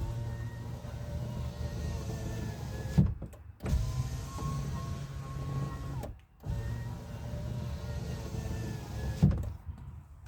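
UAZ Patriot front electric window regulator motor running the glass three times in a row, a steady hum with a faint whine, each run ending in a knock as the glass reaches its stop. The mechanism has just been greased to cure a loud squeal when lowering.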